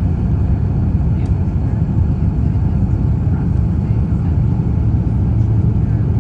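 Steady low rumble inside the economy cabin of an Airbus A350-900 during landing, with a faint click about a second in.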